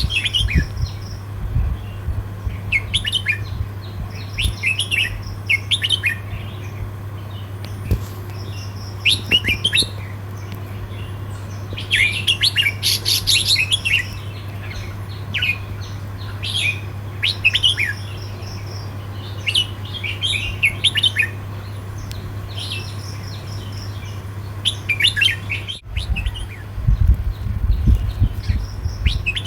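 Red-whiskered bulbul singing short chirpy phrases, one every second or two, over a steady low hum.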